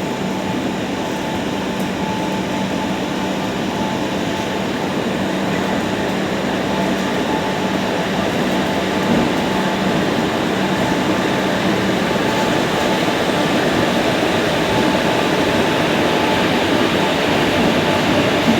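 Train running on rails: a steady rumbling noise with a faint hum, slowly growing louder.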